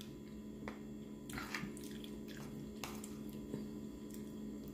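Quiet eating sounds: a taco being chewed, with a few faint clicks and squishes, over a steady low hum.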